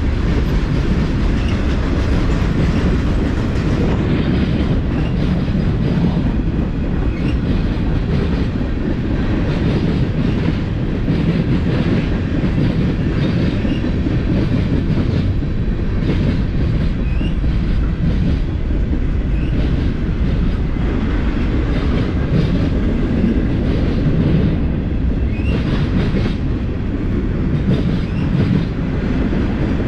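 Freight train cars rolling past: a steady loud rumble of steel wheels on rail, with faint clicks as the wheels cross rail joints.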